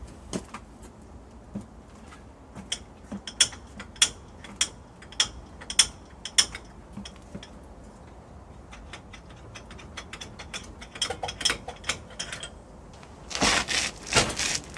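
Socket ratchet clicking in a run of sharp clicks, about two a second, as it is worked on the crank bolt of a completely seized engine. A louder burst of harsh, rough scraping comes near the end.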